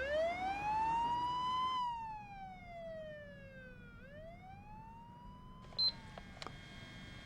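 Cartoon-style comic sound effect: a whistling, siren-like tone that slides up in pitch, slowly back down, then up again before fading. A brief high beep and a click follow near the end.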